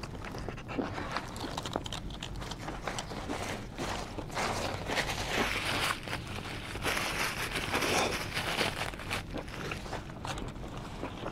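Close-up chewing of a cheesesteak sandwich, with small wet mouth clicks. Through the middle, rustling and crinkling from the sandwich's foil wrap and a paper napkin.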